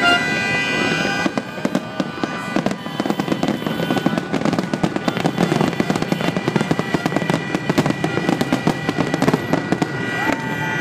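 Fireworks display: a dense, continuous run of rapid bangs and crackling from bursting shells and rockets, starting about a second in, with music playing underneath.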